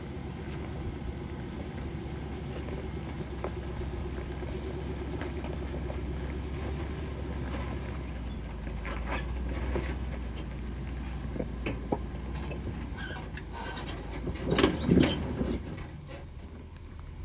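A vehicle's engine runs at low speed as it crawls over a rocky trail with a trailer in tow. Scattered small knocks and creaks are heard, and a couple of louder knocks about fifteen seconds in.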